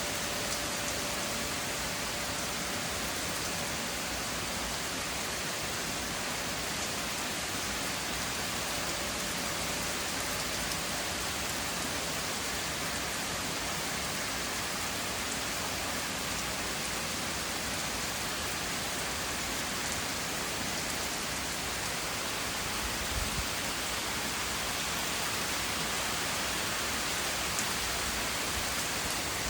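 Steady rain falling during a thunderstorm, an even hiss with no let-up.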